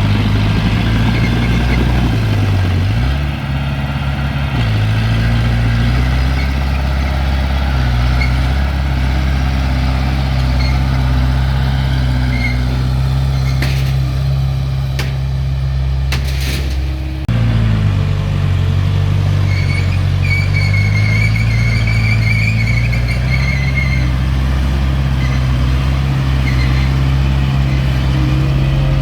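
Heavy-equipment diesel engine running steadily, its pitch sagging briefly now and then as it takes load. A few sharp clicks come a little past the middle, and a thin high squeal follows for a few seconds.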